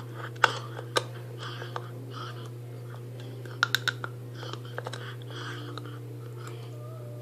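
English Bull Terrier puppy chewing on a bone: soft repeated gnawing with sharp clicks of teeth on the bone, a few in a quick cluster near the middle, over a steady electrical hum.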